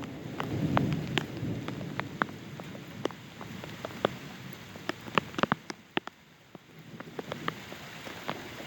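Rain during a thunderstorm, with many sharp drops tapping close by. The tail of a low thunder rumble fades out in the first second or so.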